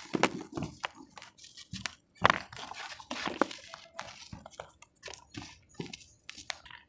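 Damp cement being crushed and crumbled by hand, a run of irregular crunches and crackles, the loudest a little past two seconds in.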